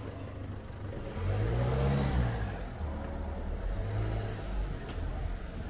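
A car engine accelerating, its pitch rising about a second in and falling away after two seconds, then a shorter second rise near four seconds.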